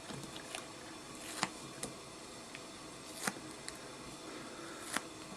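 A paper trading card being torn by hand into pieces, heard as a few brief, sharp rips spread through an otherwise quiet stretch.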